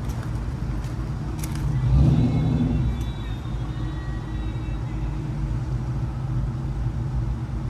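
Steady low rumble of a motor vehicle, swelling briefly about two seconds in.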